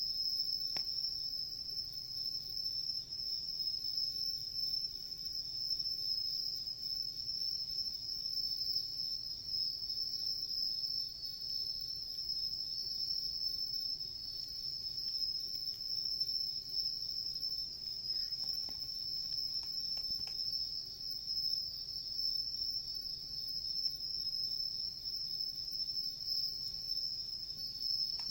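Crickets chirping in a steady, unbroken high-pitched chorus, with a few faint crackles from the wood fire.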